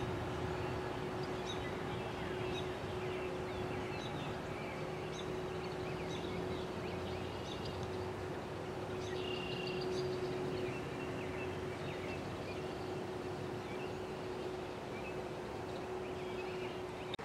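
Small birds chirping and twittering over steady outdoor background noise and a constant low hum, which cuts off abruptly at the end.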